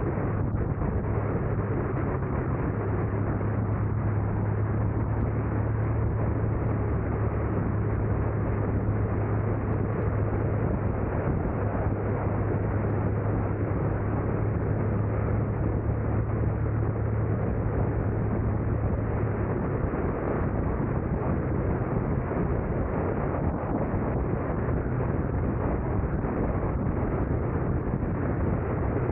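Steady road and engine noise of a car driving, with a constant low drone.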